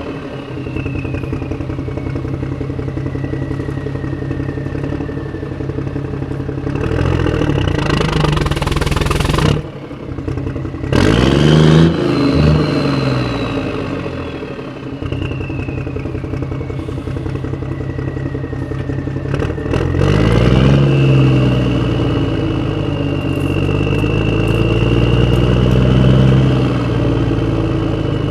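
Motor of a spinning disk toy running steadily, with a high whine that slides down and up as its speed changes. It drops off for a moment about ten seconds in, then comes back louder with a rising and falling sweep.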